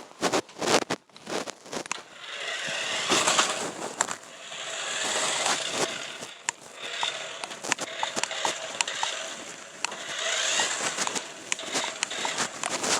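Old RC truck driving over rough ground: a crunching, crackling rolling sound that swells and fades several times, with many sharp clicks and a faint steady whine underneath.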